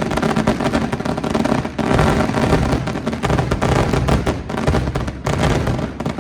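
New Year fireworks going off in rapid succession, a dense run of bangs and crackles.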